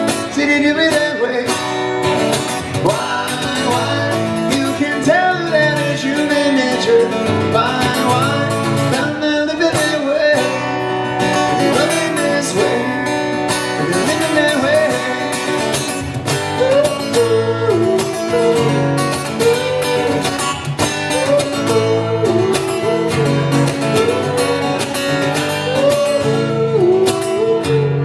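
Acoustic guitar playing steady chords under a singing voice that glides through wordless melody lines.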